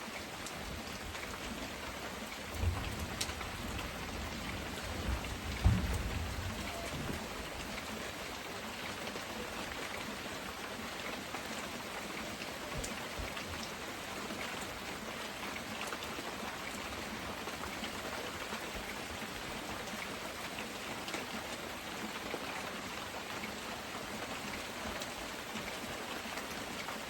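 Heavy rain pouring steadily. Two low rumbles of thunder come through it a few seconds in, the second one louder and longer.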